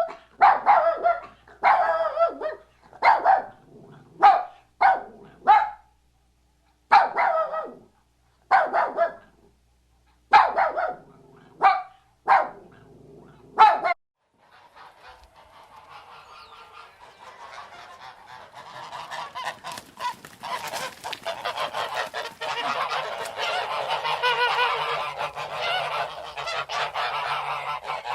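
Geese honking: about a dozen separate short honks, then a whole flock calling together, the din swelling louder toward the end.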